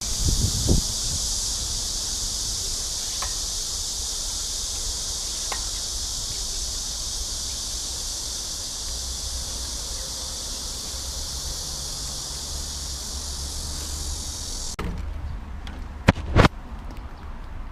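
A chorus of cicadas buzzing in one steady, high-pitched drone that cuts off suddenly about fifteen seconds in, over a low rumble. Two sharp clicks follow near the end.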